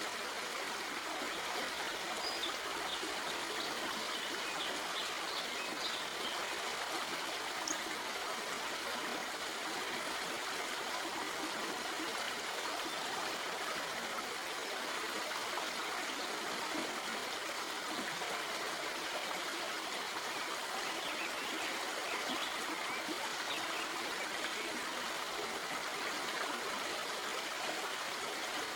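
Shallow stream flowing over rocks: a steady rush of water with small trickles and splashes dabbling over the top, a few of them clustered a couple of seconds in and again past the middle.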